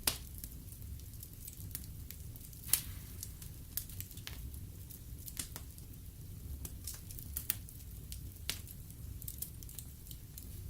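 Wood fire burning in a fireplace: logs crackling with irregular sharp pops over a low steady rumble of the flames, the loudest pops at the very start and about three seconds in.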